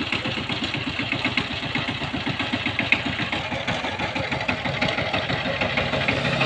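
Power tiller's single-cylinder diesel engine running steadily, with a rapid, even beat of firing pulses.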